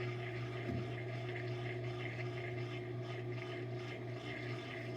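Washing machine running with a steady low hum and water noise, without knocking or bangs.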